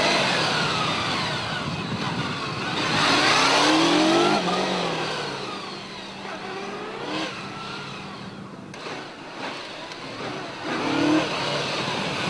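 Police motorcycle engine, a Honda VFR800, revving up and dropping back repeatedly as it is ridden through a slow balance course. The rises are loudest near the start, around three to four seconds in, and again about eleven seconds in.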